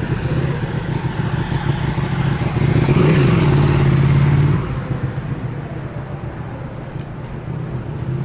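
City street noise with a motor vehicle passing close by. It grows louder up to about three seconds in and drops off sharply just before the five-second mark, leaving a quieter street hum.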